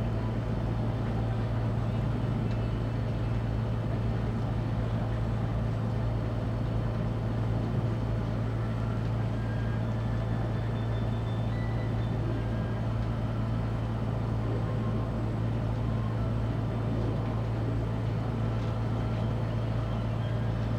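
A boat's engine running steadily, heard from aboard: an even, unbroken low hum with no change in pitch or level.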